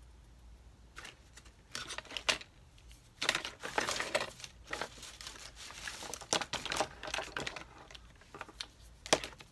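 Pen scratching across paper in bursts: a few short strokes, then a longer run of scribbling in the middle, and one more stroke near the end.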